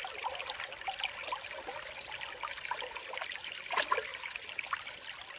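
Shallow creek water trickling and running over stones, with a few small sharp sounds, the loudest about four seconds in.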